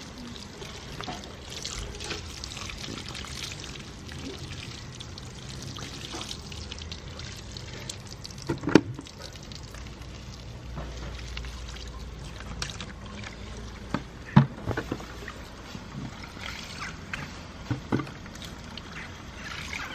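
Water pouring and trickling over a car as it is rinsed off, with a couple of short knocks about halfway through and again later.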